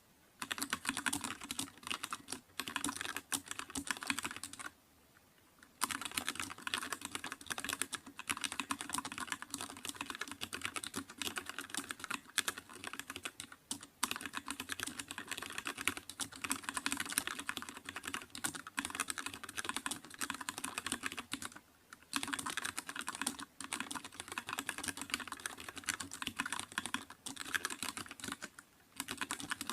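Fast, continuous typing on a computer keyboard: a dense run of key clicks, broken by brief pauses about five seconds in, around two-thirds of the way through and again near the end.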